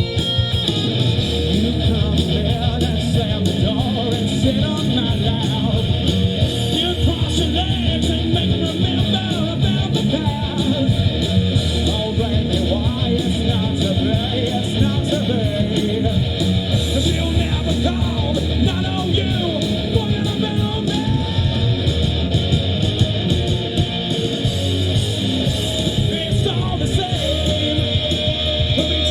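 Live rock band playing, with electric guitar, drums and a singing voice.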